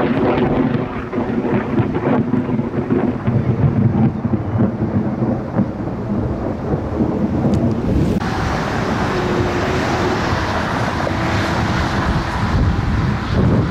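Thunder rumbling in a thunderstorm, with rain. About eight seconds in the sound changes abruptly to a brighter, steady rushing hiss.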